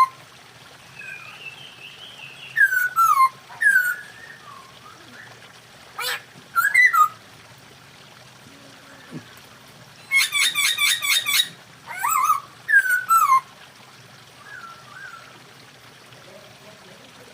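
Masked laughingthrushes calling: loud whistled notes sliding downward in short bursts. About ten seconds in comes a rapid rattling chatter lasting over a second.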